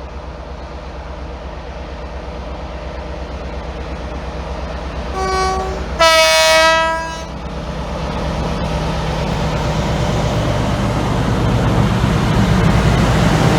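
An approaching train, its running noise growing steadily louder. About five seconds in it sounds its two-tone horn: a short lower note, then a longer, louder higher note.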